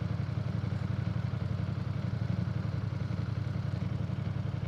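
Ducati Streetfighter V4 S's V4 engine idling steadily with a low, even rumble.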